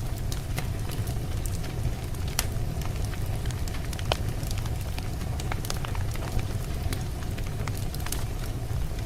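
Wood campfire burning, its logs crackling with frequent irregular sharp pops over a steady low rumble.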